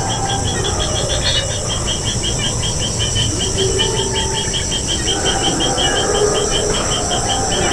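Insects chirping: a short high chirp repeating about five times a second, over a steady high insect hum.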